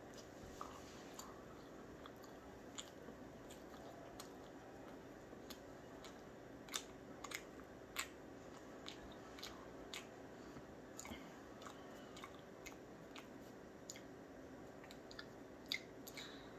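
A person chewing a jumbo marshmallow: faint, scattered mouth clicks, with a couple of louder ones about halfway through.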